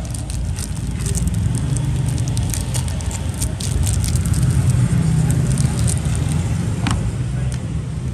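Steady low rumble with scattered small clicks and taps from a Zippo lighter being handled, and one sharper click about seven seconds in.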